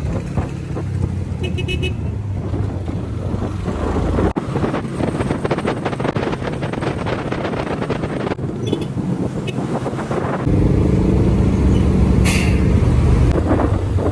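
Motorcycle engine running while riding through city traffic, with rumbling road and wind noise. A few short high beeps come early on and again about nine seconds in, and the engine grows louder about ten seconds in.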